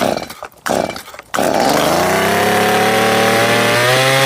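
Stihl MS210 two-stroke chainsaw engine starting: two short sputters, then it catches about a second and a half in and runs steadily, its pitch slowly creeping up before dropping near the end. It is running lean on the low-speed circuit, judged to need a little more low-speed mixture.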